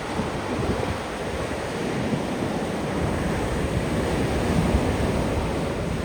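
Ocean surf breaking and washing on a beach, a steady rush that swells gently, with wind buffeting the microphone.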